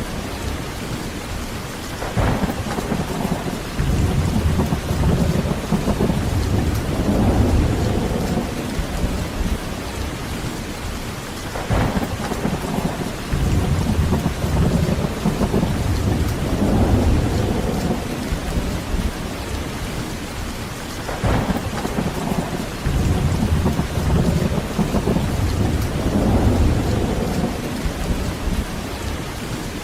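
Heavy rain falling steadily with rolling thunder. Three times, about every nine or ten seconds, a sudden thunderclap opens a low rumble that swells and fades over several seconds.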